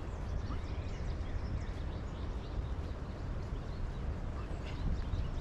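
Small birds chirping in woodland, many short high calls, over a steady low rumble on the microphone.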